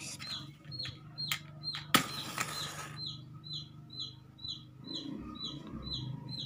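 A bird's short high chirps repeating evenly, about two or three a second, each dropping slightly in pitch. A sharp click and about a second of rustling hiss come about two seconds in.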